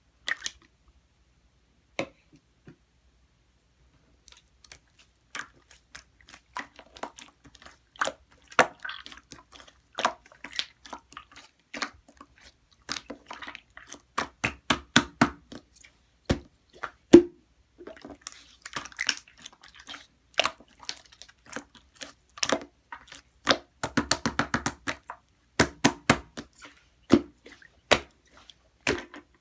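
Clear slime being squished and pressed by hand: an uneven run of sticky clicks and pops. The pops are few at first, then come thick and fast.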